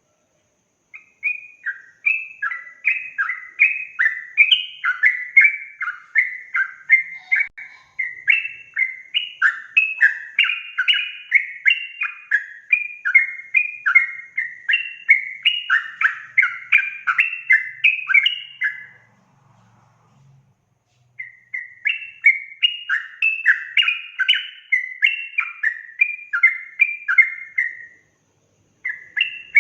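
Yellow-vented bulbul (trucukan) singing a fast, continuous run of quick, sliding notes. The song breaks off for about two seconds past the middle and briefly again near the end.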